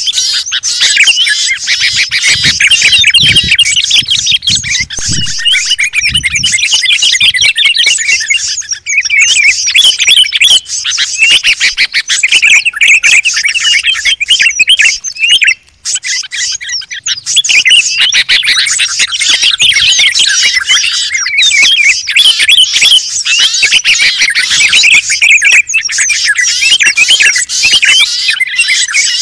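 Dense chorus of many small songbirds chirping and twittering at once, a combined bird-lure recording of several species, with a brief break about halfway through.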